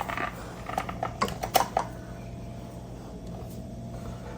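A handful of short clicks and knocks over the first two seconds as the coffee grinder is handled and set to a finer grind, then a faint steady low hum.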